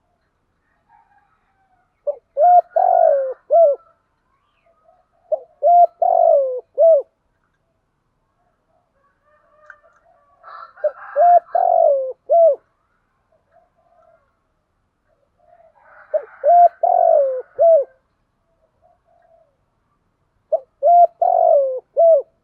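Spotted dove cooing: five phrases of three or four low, hooting notes, each phrase about a second and a half long, repeated every four to five seconds, with a few faint single coos between them.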